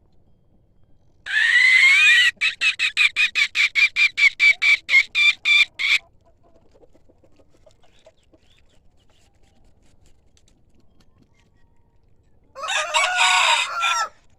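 Decoy rooster calling. About a second in it gives a crow that breaks into a fast run of about sixteen short clucks over some four seconds. Near the end comes a second crow, about a second and a half long.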